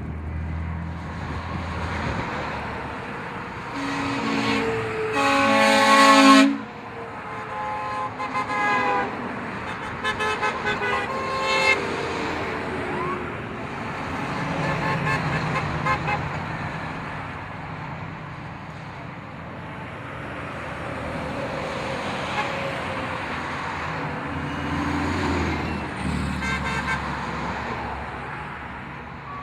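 Tow trucks rolling past with engines running and horns honking. A long, loud horn blast comes about five seconds in, followed by a string of short honks, and more short honks come near the end.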